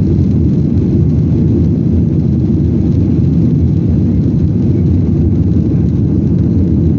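Steady low rumble inside the cabin of a Boeing 737-800 during takeoff: its CFM56-7B turbofans running at high power, mixed with the rush of air past the fuselage.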